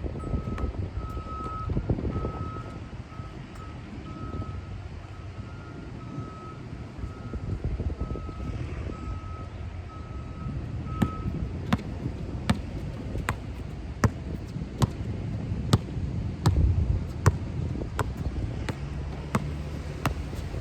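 A vehicle's reversing alarm beeps steadily, then stops about halfway through. After that come sharp knocks at an even pace, about one every second or a little faster, over a low rumble of wind on the microphone.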